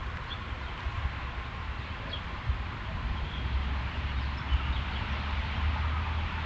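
Backyard outdoor ambience: a steady hiss with a low rumble underneath, and a few faint, short bird chirps.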